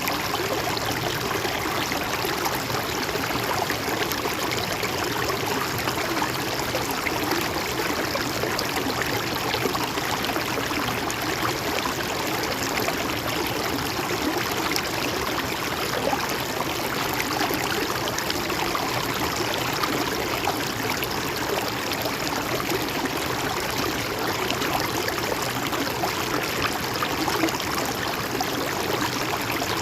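Stream or small river flowing steadily, an even wash of running water that stays the same throughout.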